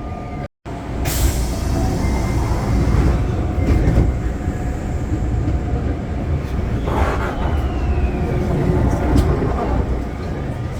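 Osaka Metro Chuo Line subway train heard from inside the car: a steady rumble of the running train, with the electric motors' whine sliding in pitch in the second half.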